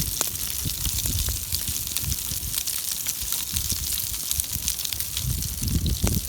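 Wind buffeting the microphone in irregular low rumbles, over a steady hiss with faint scattered crackles from a wood campfire.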